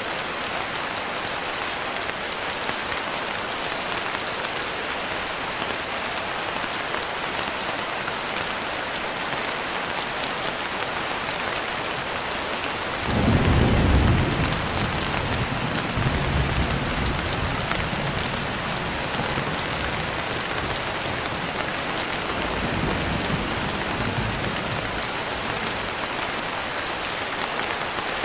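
Steady heavy rain hissing throughout. About halfway through, thunder breaks in suddenly, loudest at its onset, then rumbles on more softly for about ten seconds.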